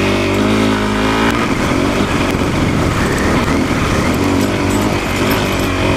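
Single-cylinder dual-sport motorcycle engine running under load on a dirt road, its note rising a little over the first second and a half, then blending into rougher noise.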